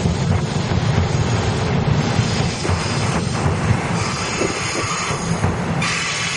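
Commuter electric multiple unit rolling slowly past on the near track, a steady low rumble of wheels and running gear. A faint high wheel squeal comes in about four seconds in.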